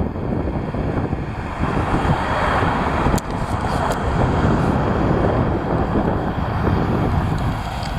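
Strong gusty wind buffeting the microphone: a loud rushing and rumbling that swells about a second and a half in and eases off near the end.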